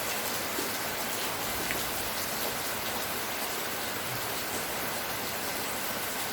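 Steady rainfall: an even hiss of rain with a few individual drops ticking out of it.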